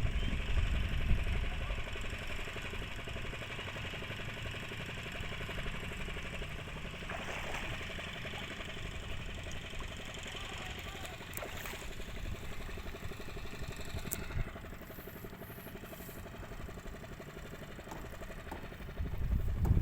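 Fishing boat's engine running steadily with a fast even chugging pulse, dropping a little in level about fourteen seconds in.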